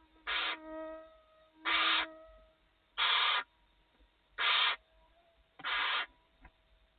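Barn owl giving a series of rasping hiss calls (the "snoring" call), five bursts of about half a second each, coming roughly every second and a half.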